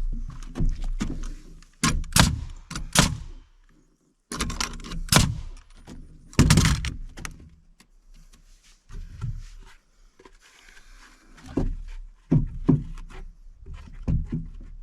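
Irregular heavy wooden thunks and knocks: lumber being handled and set or knocked into place on a timber deck frame.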